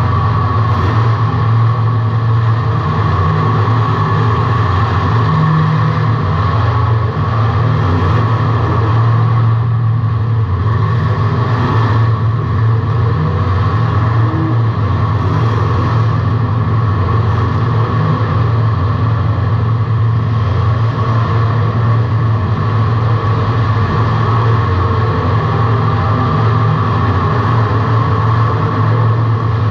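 A car's engine running steadily and loudly, heard from inside the car through an in-car camera, holding much the same pitch throughout.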